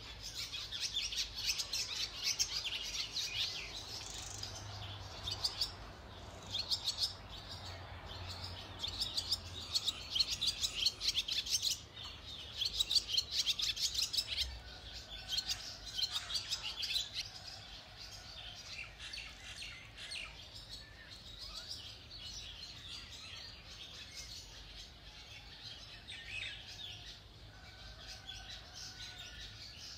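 Small birds chirping and twittering in quick, high runs. The chirping is busiest through the first half and thins out later.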